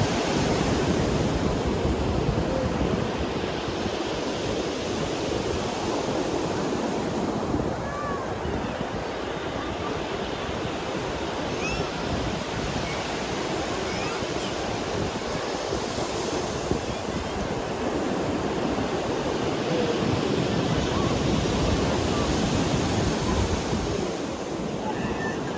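Ocean surf breaking and washing onto a beach in a steady rush that swells and ebbs with the waves: louder at the start, easing off in the middle, and building again past the middle.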